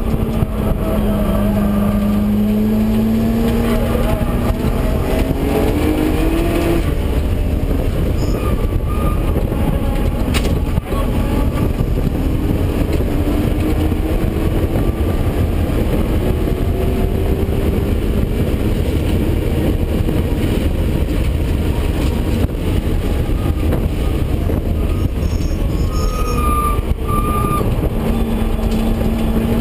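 Nissan R32 Skyline GT-R's twin-turbo straight-six running hard, heard from inside the cabin on a racing lap. Its pitch climbs under acceleration for several seconds, eases, climbs again, and holds steady near the end.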